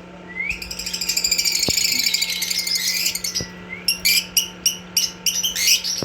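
Black-masked lovebird chattering: a long, rapid twittering warble for about three seconds, then a quick string of sharp, separate chirps.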